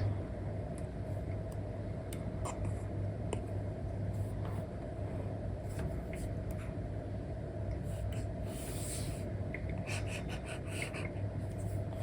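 Apple Pencil nib tapping and stroking on an iPad's paper-like screen film: scattered light ticks and a scratchy stroke about eight seconds in, over a steady low hum.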